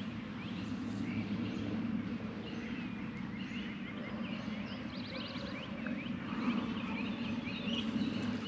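Birds chirping in many short, quick calls, with one rapid trill about halfway through, over a steady low background rumble.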